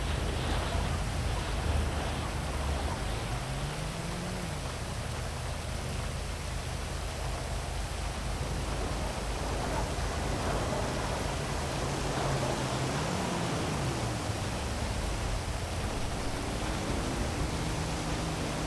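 Heavy rain falling as a steady, even hiss, over the low hum of city traffic. Engine tones rise and fall a few times as vehicles go by.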